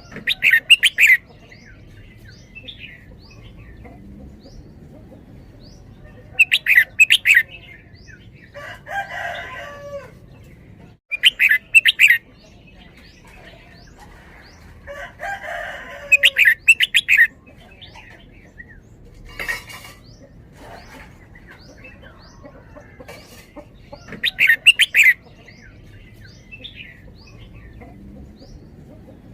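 Red-whiskered bulbul singing its doubled 'bern-bern' song phrases: five loud bursts of quick notes, each about a second long, a few seconds apart. Two softer, longer calls come in between, and faint chirps of other birds run behind.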